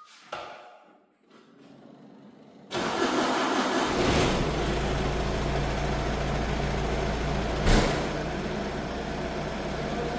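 Holder C70 compact tractor's engine starting about three seconds in and then running steadily, with one short thump a little before the end.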